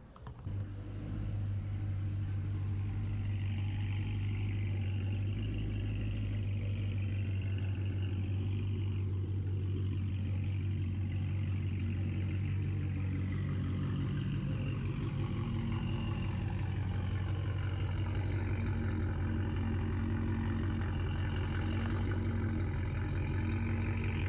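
Dodge Challenger Scat Pack's 392 HEMI V8 with Kooks long-tube headers, starting in the first second and then idling steadily and loud.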